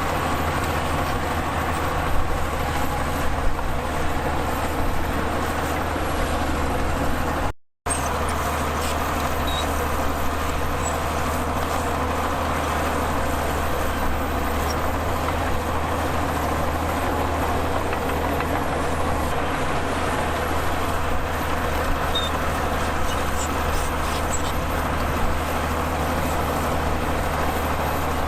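Heavy diesel earthmoving machinery running steadily, with a strong low engine drone. The sound cuts out for an instant about eight seconds in.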